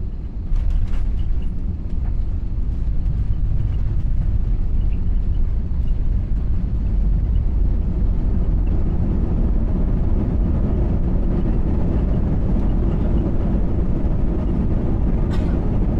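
Airbus A320 landing heard from inside the cabin: a sudden jump in loudness about half a second in, then a loud, steady rumble of the wheels on the runway and the engines as the airliner rolls out.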